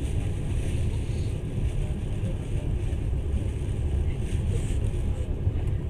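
Passenger train running at speed: a steady low rumble of wheels on the rails with a faint hiss above it.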